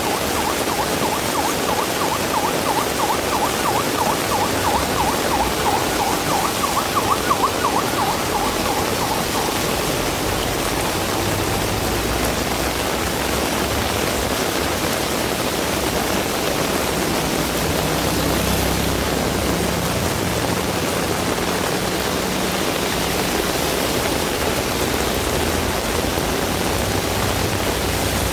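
Heavy rain falling steadily. Over the first nine seconds or so a fast-warbling tone sounds through it, and in the second half a vehicle's low engine rumble comes in under the rain.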